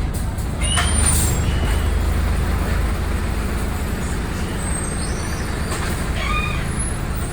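Inside a moving city bus: the engine's steady low drone, with short high-pitched squeals from the bus body's parts about a second in and again near the end, strange noises that sound like dinosaur calls.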